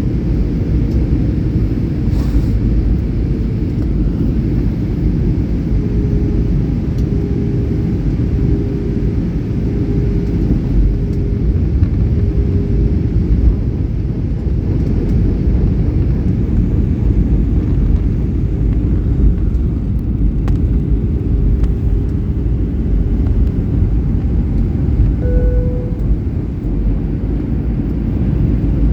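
Airliner noise: a steady low rumble of jet engines and rushing air, with a faint wavering engine tone through the middle.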